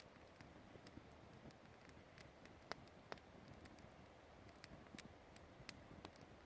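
Wood campfire crackling faintly: scattered small pops and ticks, with two slightly louder snaps about halfway through.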